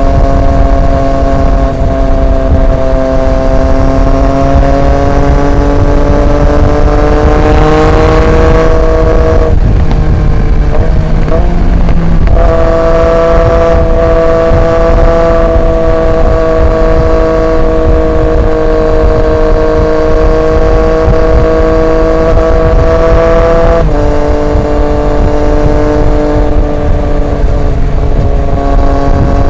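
Triumph Street Triple 765 RX's three-cylinder engine through an SC Project S1 exhaust, running at steady cruising throttle. Its note rises slowly, breaks up for a few seconds about ten seconds in, then settles back steady, and drops a step in pitch about five seconds before the end.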